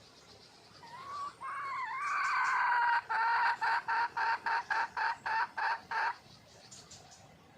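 Red junglefowl hen calling: a wavering, rising note held for about two seconds, then a run of about a dozen quick, evenly spaced clucks that stop suddenly about six seconds in.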